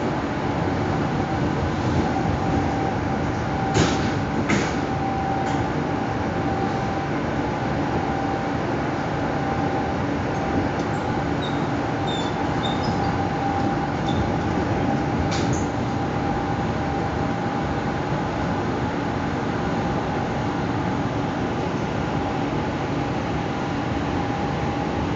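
Electric commuter train running at speed, heard from inside the carriage: a steady rumble of wheels on rails with a constant hum. A few sharp clicks come about four to five seconds in and again around fifteen seconds, with brief faint high squeaks in between.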